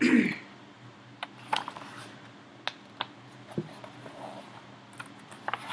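A book being handled and opened, its pages and cover giving scattered light clicks and taps, with a brief louder bump right at the start.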